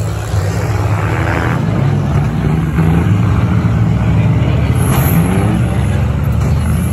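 Engines of several 1990s-and-newer demolition derby cars running and revving together in a loud, steady low din, with a short, harsher burst of noise about five seconds in.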